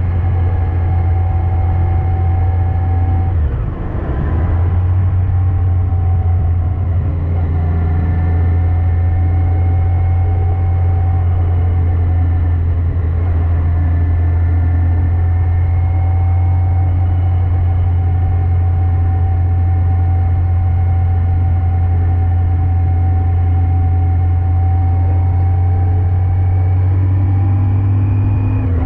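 Yamaha FJR1300AE's inline-four engine running steadily at cruising speed, a strong low hum. The engine note dips briefly about four seconds in, then settles back.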